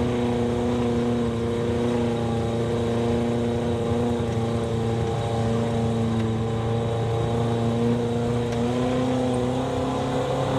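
Offroad vehicle's engine running at a steady cruise, heard from inside the vehicle: a steady drone that holds its note with only small shifts in pitch.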